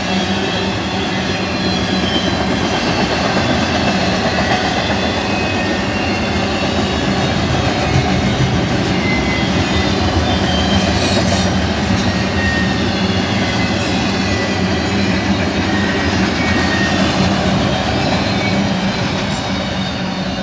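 BNSF intermodal freight train rolling past at steady speed: a continuous loud rumble of steel wheels on rail, with brief high squeals from the wheels scattered through it. It starts to fade right at the end.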